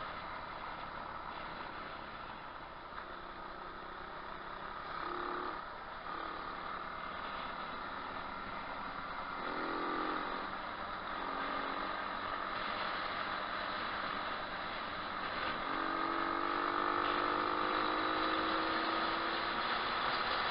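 125cc pit bike engine running on the move, its pitch climbing in a couple of short pulls and then in one longer, slow rise in the second half, over a steady rushing noise.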